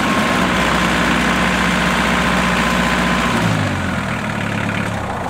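Kioti tractor's diesel engine running steadily, then settling to a lower, quieter speed about three and a half seconds in.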